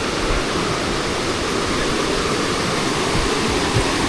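Steady rush of falling water from a waterfall or fast stream, an even hiss and roar that does not change.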